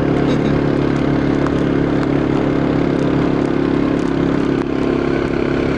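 Quad bike engine running steadily, a constant drone without revving.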